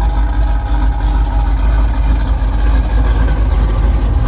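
Truck engine running with a steady, deep, loud rumble.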